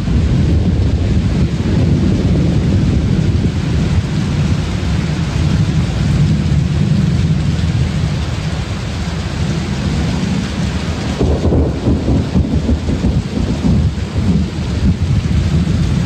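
Heavy rain falling during a thunderstorm, with a steady low rumble of thunder.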